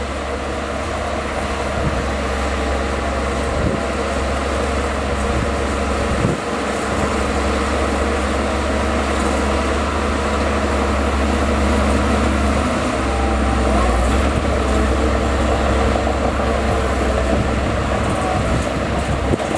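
Bulldozer's heavy diesel engine running steadily under working load while it pushes earth, with a single sharp knock about six seconds in.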